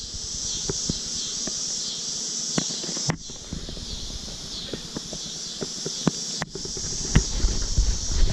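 Insects chirring steadily in a high, even drone, with scattered small clicks and taps. From about seven seconds in come low rumbling bumps of handling or wind on the microphone.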